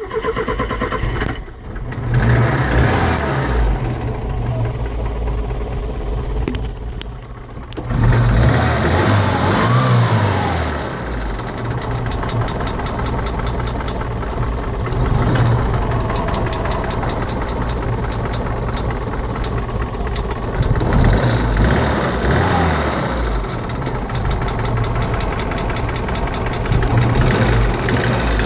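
Steyr-Puch Pinzgauer engine running with a rattle, revved up and back down a few times between stretches of idling.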